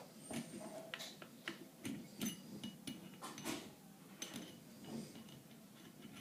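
Irregular light clicks and small metallic clinks of a drill's chuck and bit being handled.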